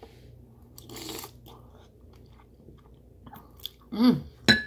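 Close-miked chewing of a spoonful of crab meat in sauce, with soft wet crunches. Near the end there is a short hummed "mm" through closed lips, then a sharp click.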